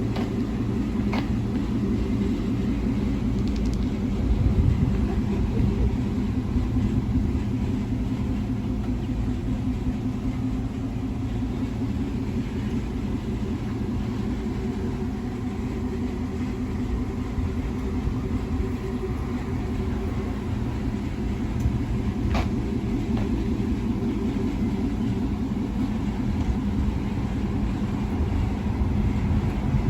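Vehicle engine running steadily, a continuous low rumble. A couple of faint clicks come through, one about a second in and one past the twenty-second mark.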